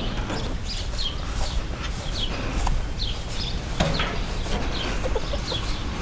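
Birds chirping over and over, short high notes that fall in pitch, several a second, over a steady low rumble. A single knock sounds about four seconds in.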